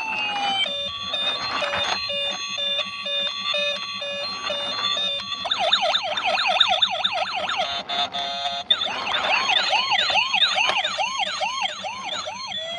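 Toy police car's electronic siren cycling through its sounds. A stepped, repeating electronic tone pattern comes first, then switches about five seconds in to fast, repeating rising-and-falling wails, broken by a brief rapid trill about two-thirds of the way through.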